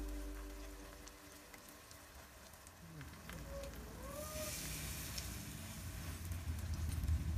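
Eggplant patties sizzling faintly in oil in a frying pan, with light clicks and scrapes of a metal spoon pressing the mixture into ring moulds.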